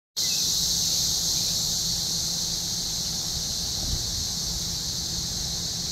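A dense chorus of many cicadas singing in the trees, a steady high-pitched shrill drone that goes on without a break.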